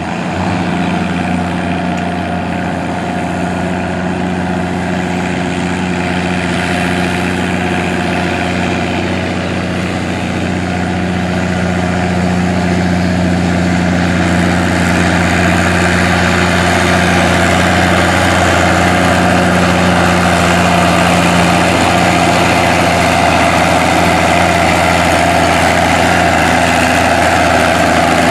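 Antique farm tractor engine running steadily, growing gradually louder over the second half.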